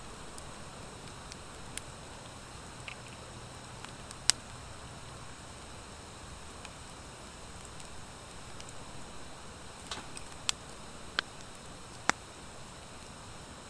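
Wood fire of driftwood and dry hardwood logs burning with a steady hiss, broken by sharp crackling pops: one loud pop about four seconds in and a cluster of three or four near the end.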